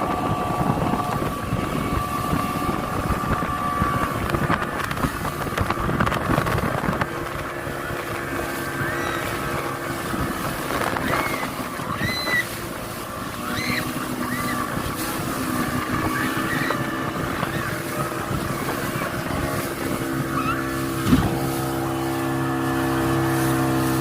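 Motorboat engine running, with wind noise on the microphone and water rushing for the first several seconds. After that a steadier engine tone comes through and grows stronger toward the end, with a sharp click about three seconds before the end.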